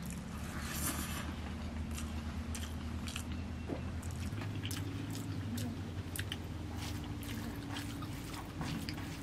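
Close-up chewing and eating sounds of a person eating chicken biryani by hand: many short wet mouth clicks, with soft squelching as fingers mix the rice.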